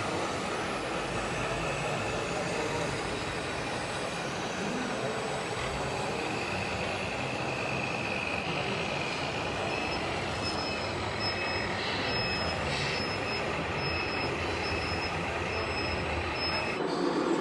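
Scale RC model truck running, with a steady motor and gear noise and a faint whine. From about ten seconds in, short high beeps repeat about once a second, like a reversing beeper.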